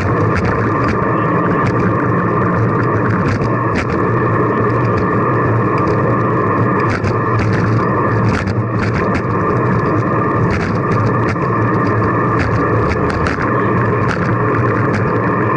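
Steady wind and road noise from a camera on a moving bicycle, with frequent short clicks and rattles.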